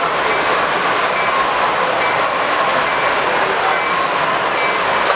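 Steady hall din of a busy exhibition floor, with a short high-pitched tone repeating about once a second.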